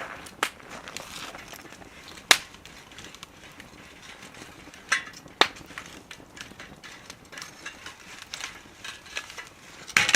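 Wood fire burning in a small wood stove, crackling softly with sharp pops of the burning wood now and then, the loudest a few seconds apart.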